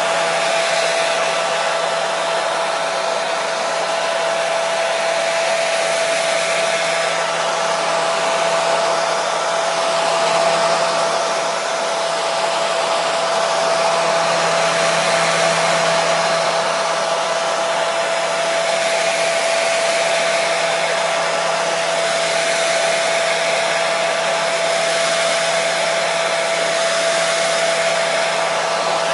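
Hair dryer running steadily: an even rush of blowing air with a steady motor hum under it.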